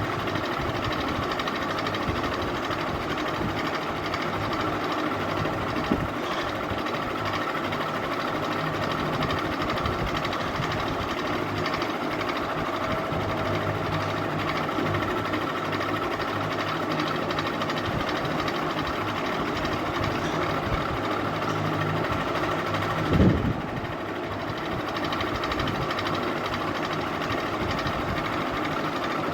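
Ceiling fan running with a steady mechanical whir and hum, broken once by a short low thump about three-quarters of the way through.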